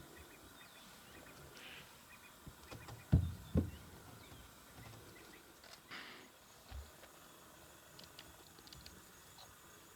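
Faint bird calls over quiet bush ambience. A little past three seconds in, two dull low thumps come close together.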